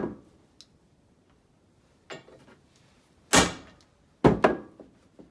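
Sharp metallic knocks and clanks from work on a driveshaft and its freshly installed U-joint: a faint one, then a loud one, then two in quick succession and a small one near the end.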